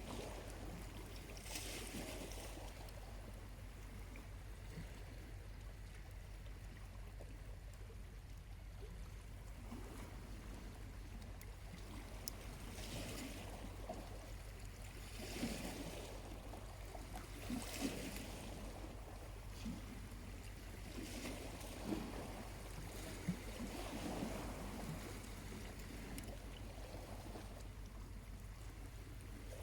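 Small waves lapping gently on a quiet shore, a soft wash coming in every few seconds, with a few faint crackles from a charcoal campfire.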